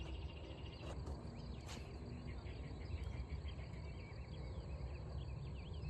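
Night insects, crickets among them, chirping and trilling faintly over a steady low rumble, with a brief rustle about two seconds in.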